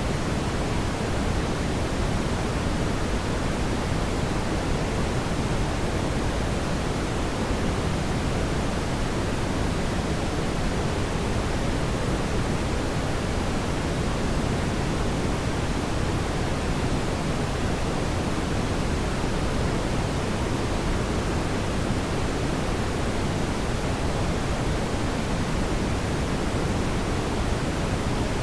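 Fireplace ambience: a steady, even rushing noise of a fire, heaviest in the low end, with no distinct crackles or pops.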